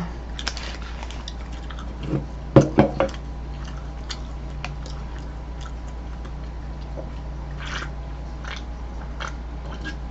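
Close-up biting and chewing of takeout food, with crunchy bites and wet clicks; the loudest cluster of bites comes about two and a half seconds in. A steady low hum runs underneath.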